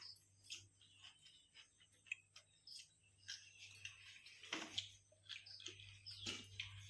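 Faint eating sounds: chewing and small wet mouth clicks, scattered and irregular, over a low steady hum.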